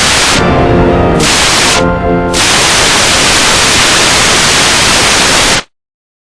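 Heavily distorted, effect-processed music, typical of a 'G Major' edit: a loud wall of harsh static-like noise with musical notes showing through twice, cutting off suddenly about five and a half seconds in.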